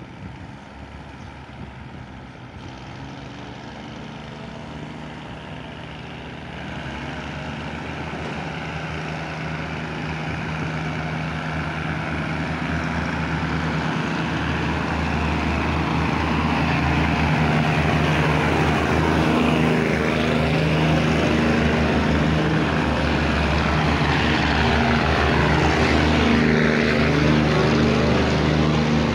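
Diesel railcar train pulling into the station: engine drone and wheel-on-rail rumble growing steadily louder as it approaches and runs in alongside the platform.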